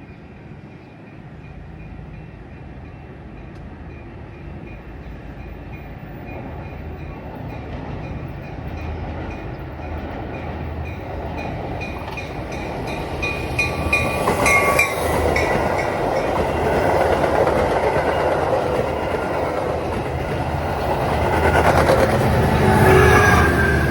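A train drawing closer and growing steadily louder, its wheels clattering over the rail joints from about halfway through, with a faint high steady whine in the first half.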